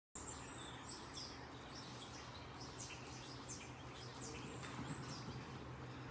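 Small birds chirping, short high chirps falling in pitch about twice a second, over a steady low hum and an even background hiss.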